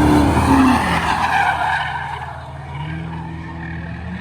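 Cars racing through a turn with tires squealing as one slides sideways, over engines running hard. The engine note drops in pitch under a second in, and the squeal fades after about two seconds.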